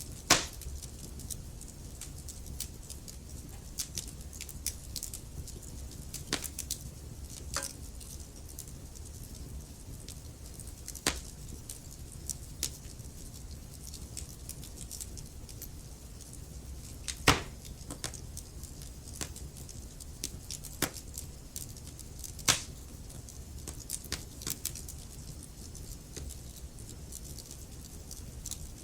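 Wood fire burning in a fireplace: a steady low rumble and hiss of the flames with irregular crackles from the logs, and three louder pops, one just after the start, one about 17 seconds in and one about 22 seconds in.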